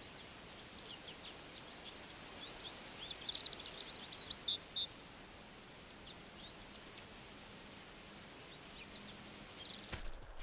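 Woodland birds chirping and twittering in quick short calls over a steady hiss of forest ambience, busiest between about three and five seconds in. Near the end, footsteps on grass and leaf litter begin.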